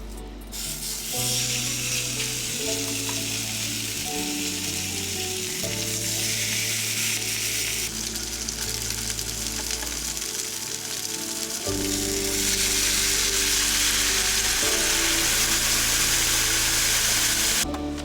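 Food sizzling in a frying pan, a steady hiss that starts about half a second in and cuts off near the end, over background music.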